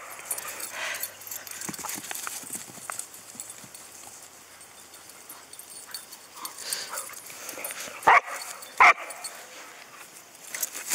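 Two short, loud dog barks about eight seconds in, over faint scuffling and light knocks of play.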